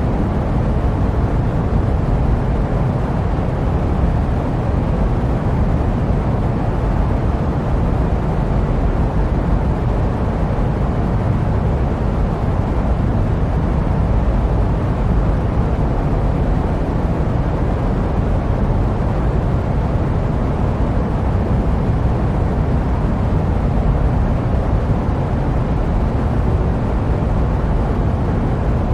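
Steady jet airplane noise used as white noise: a deep, even rumble with a softer hiss above it and no changes.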